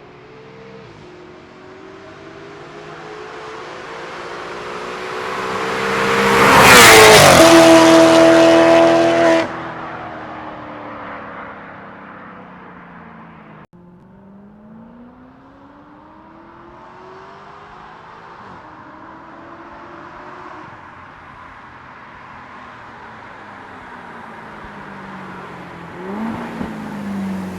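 Maserati GranTurismo 4.2-litre V8 through a custom exhaust with straight pipes, accelerating past. The exhaust note builds to a loud peak as the car goes by, then cuts off sharply about nine seconds in. Afterwards the engine is heard more faintly, rising and falling in pitch, and grows louder again near the end.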